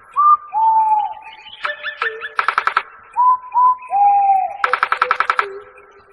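A bird calling: clear whistled notes that slide down in pitch, broken twice by fast, harsh rattling trills.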